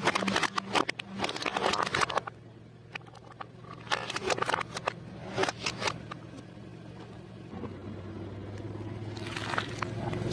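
Car tyres rolling over food and crushing it: crackly crunching and squashing in several bursts, loudest in the first two seconds and again near the end, over the steady hum of the car's engine.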